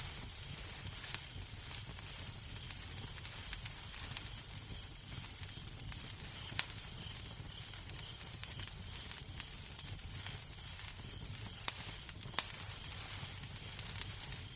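Fireplace crackling: a steady hiss of burning wood with frequent small crackles and a few sharper pops, over a low rumble of the fire.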